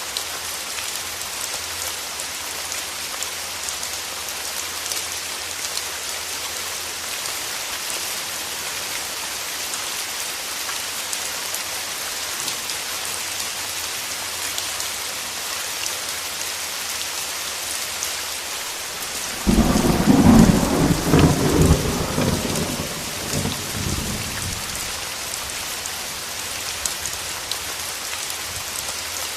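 Steady rain falling. About two-thirds of the way through, a clap of thunder breaks in suddenly and rumbles for about five seconds before fading back under the rain.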